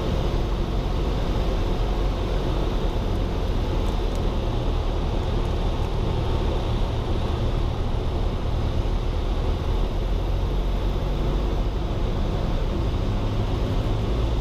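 Cessna 172's engine and propeller droning steadily, heard through the cockpit intercom.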